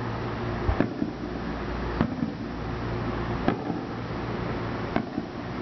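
Aerial fireworks shells going off: four separate booms about a second and a half apart, over a steady low rumble.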